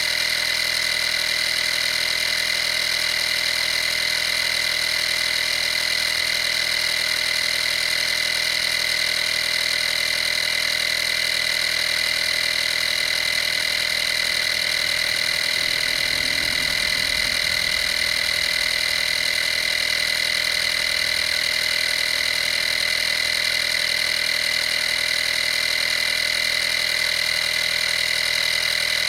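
Vaper 12-volt portable air compressor running steadily with a high-pitched whine, with a brief low rumble about halfway through.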